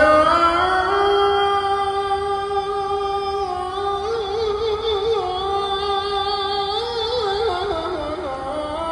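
A single voice singing one long, held melodic line in an Islamic chanting style, with wavering ornamented turns partway through and again near the end.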